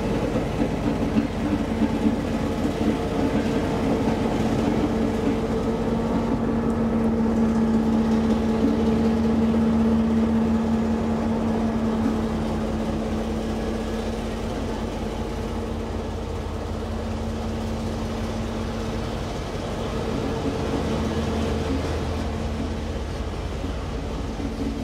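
A train rolling past: a blue TRA R-class diesel locomotive hauling new TEMU2000 Puyuma tilting train cars, with a steady engine hum over the rumble of the cars on the rails. The hum is loudest about a third of the way in and eases a little after.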